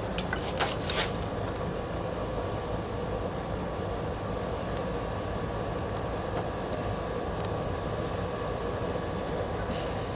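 A steady mechanical hum with a few even tones, like a fan or air conditioner, runs throughout. A few light clicks in the first second come from plastic clips being pried up on a ceiling fan part, and a single faint tick comes about five seconds in.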